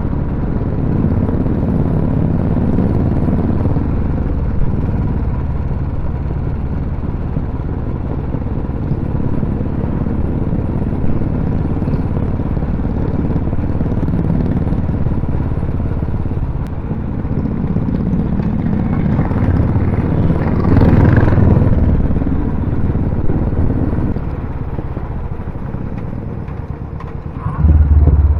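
Motorcycle engine running steadily, growing louder for a few seconds about two-thirds of the way through, with a short loud low burst near the end.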